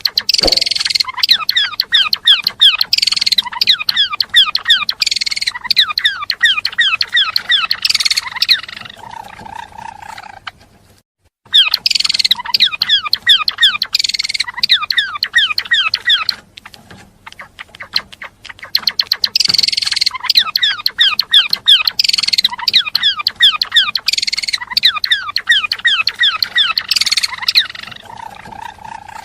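Gelatik belong songbird singing a fast, chattering song of rapid high chirps, in three long bouts broken by short pauses.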